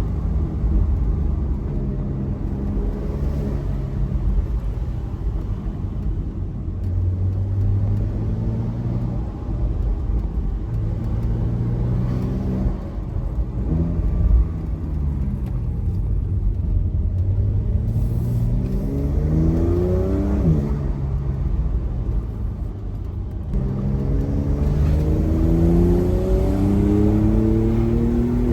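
Porsche 992.2 Carrera's twin-turbo flat-six engine pulling up through the revs in short bursts, easing off between them. About two-thirds through it climbs steeply and drops suddenly at a gear change, and near the end it climbs again in a long pull.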